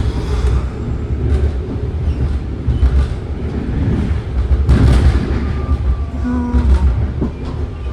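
BART train running on the rails, heard from inside the passenger car: a steady low rumble with wheel clatter. A faint high whine comes in about six seconds in.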